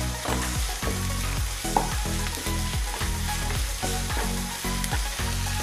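Sliced onions sizzling in hot coconut oil in a nonstick kadai while a wooden spatula stirs them, scraping and tossing about twice a second. The onions are being sautéed soft, not yet browned.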